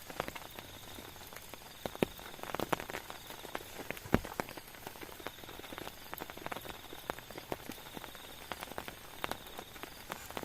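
Heavy raindrops dripping irregularly, sharp taps of varying loudness, the strongest about two and four seconds in, over a steady hiss of rain.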